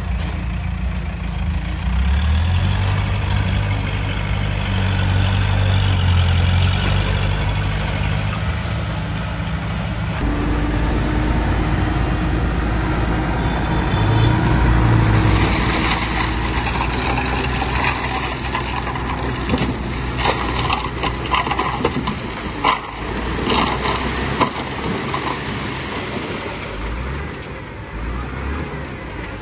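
Heavy diesel earthmoving machinery running under load, its engine note changing about ten seconds in, with a run of knocks and rattles later on.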